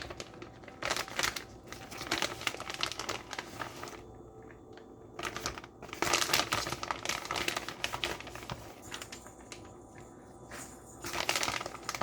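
Plastic bag of shredded mozzarella crinkling in bursts as the cheese is shaken out of it, with quieter pauses between handlings.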